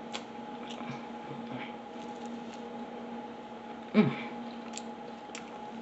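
Someone chewing a bite of fried chicken sandwich, with faint wet mouth clicks over a steady hum. About four seconds in, a short, loud sound that drops in pitch.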